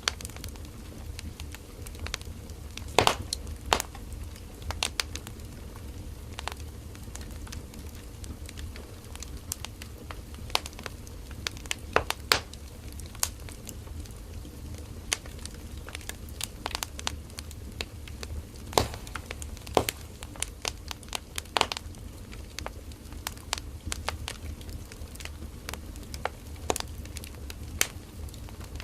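Firewood burning in a campfire, crackling and popping irregularly over a steady low rumble of the flames, with a few louder snaps about three, twelve and nineteen seconds in.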